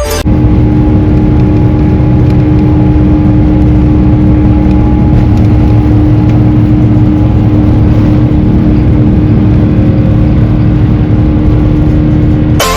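Airbus A350-900's Rolls-Royce Trent XWB jet engines running, heard from inside the cabin: a loud, steady low rumble with a constant hum.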